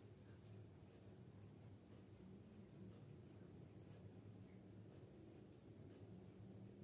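Faint, short, high-pitched bird chirps, four of them spaced about one and a half to two seconds apart, over a low background hum.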